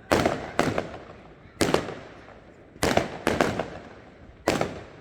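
Fireworks display shells bursting overhead: six sharp bangs, some in quick pairs about half a second apart, each followed by a rolling echo that dies away.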